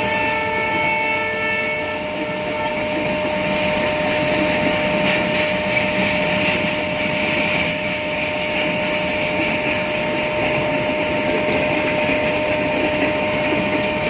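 Passenger train coaches rolling past on the track with a steady rumble and a few faint clacks over the rail joints. A train horn dies away about two seconds in.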